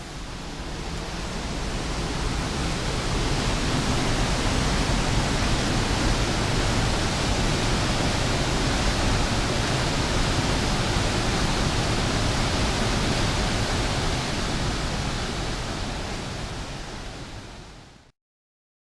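Steady, dense rush of a large waterfall's pouring water. It fades up over the first couple of seconds and fades down near the end, then cuts off.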